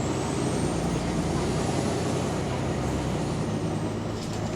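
Wright-bodied Volvo double-decker bus's diesel engine running under way, a steady drone with a thin high whine that slowly rises and falls, heard from on board. The bus has an exhaust leak.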